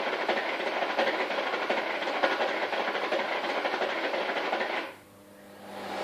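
Bosch Roxx'x vacuum cleaner switched on abruptly and running with a rough, rattling noise, then cut off about five seconds in, leaving a low hum. It builds up again just before the end.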